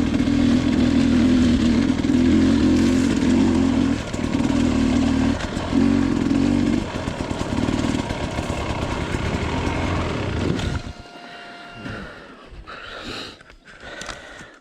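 Dirt bike engine running under load, the throttle opening and closing in surges, then going quiet about eleven seconds in.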